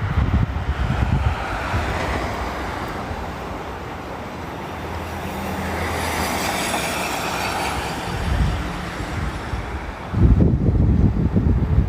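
A vehicle passes; its rushing noise swells to a peak about six seconds in and fades. Wind buffets the microphone at the start and again near the end.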